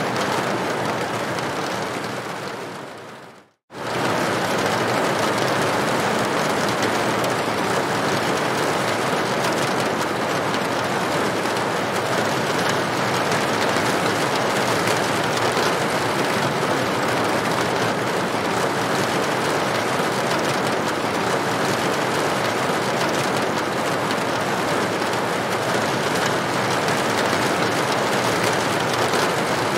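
Rain falling on a roof: a steady, even hiss of many drops. About two seconds in it fades to silence, then a moment later cuts straight back in at full level and runs on evenly, like the join of a looped recording.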